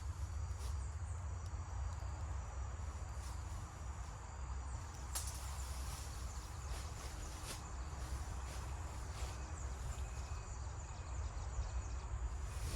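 Woodland ambience: insects keep up a steady high-pitched buzz, over a constant low rumble of wind on the microphone. A few sharp clicks stand out, the clearest about five seconds in.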